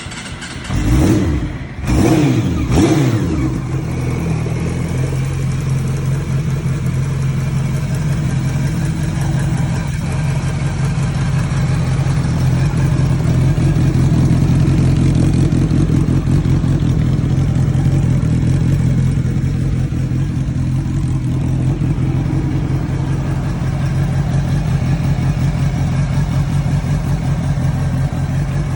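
Honda CB400SF Spec2's inline-four engine, through a new aftermarket muffler, blipped three times in quick succession just after starting, then settling into a steady idle.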